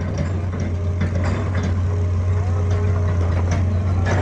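Heavy diesel engine of an excavator running steadily with a low, even drone, with a few light clicks and knocks over it.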